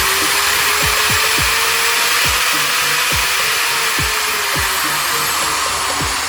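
JOUSTMAX 650W 13 mm electric impact drill running steadily at speed: a loud, even whirr with a high whine that drops slightly in pitch near the end.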